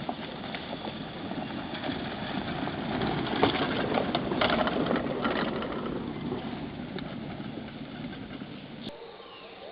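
A motor vehicle passing by: engine noise that swells to a peak about four to five seconds in, then fades away.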